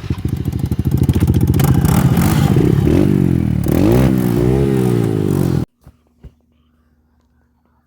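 KOTT TT125 dirt bike's straight-piped 125 cc engine running and being revved up and down several times, then the sound cuts off suddenly about five and a half seconds in.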